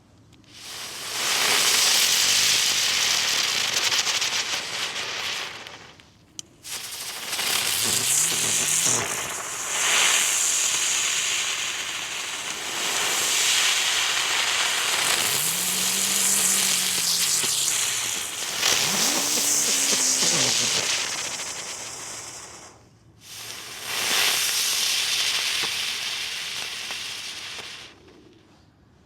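Weco Dicke Brummer ground spinners going off one after another, each giving a loud rushing hiss with a low, wavering hum, separated by short breaks.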